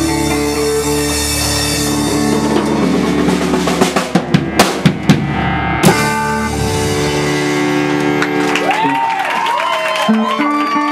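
Band music with a full drum kit and held bass and chord notes; a run of loud, sharp drum hits about four to six seconds in, then sliding high tones over held notes.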